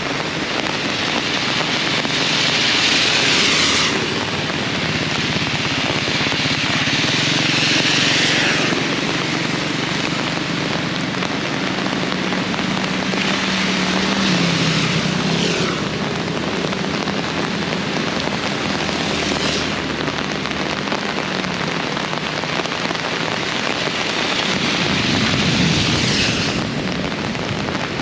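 Heavy rain pouring steadily, with louder surges of hiss every few seconds and a low steady hum through the middle stretch.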